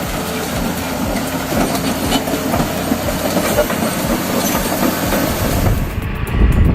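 Large crawler bulldozer running, its steel tracks clattering steadily; about 6 s in the sound gives way to a deeper, louder rumble.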